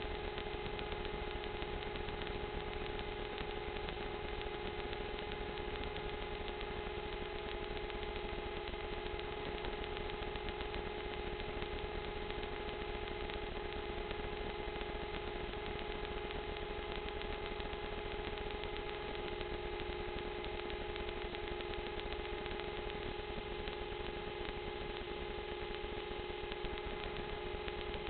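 Small quadcopter drone's motors and propellers giving a steady whine with a hiss behind it.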